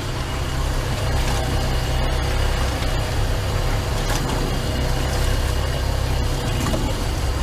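Speedboat engine running steadily: a low drone under a constant hiss.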